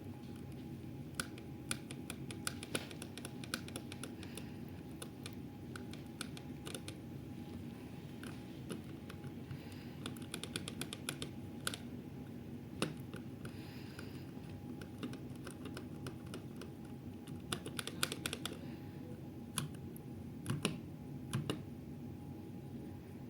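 Steady hum of a running Daikin air conditioner with a faint constant tone, overlaid by many sharp clicks that come singly and in quick runs like typing.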